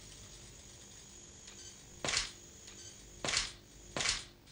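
Camera shutter firing three times, short sharp clicks about two, three and four seconds in.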